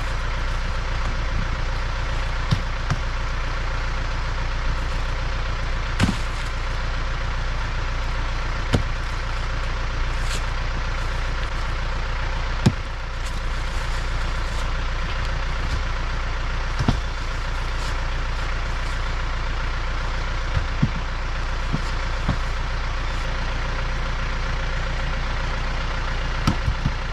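Compact diesel tractor engine running steadily at idle, with a sharp knock now and then.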